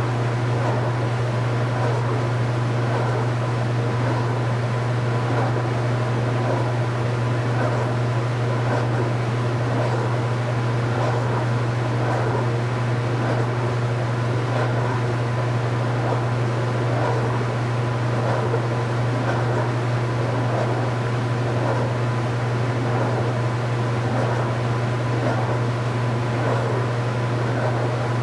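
Speed Queen 8 Series top-load washing machine running with a steady low motor hum and a faint swishing that repeats about once a second.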